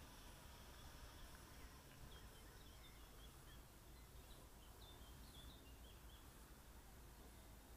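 Near silence: faint outdoor background with a few short, faint bird chirps between about two and six seconds in.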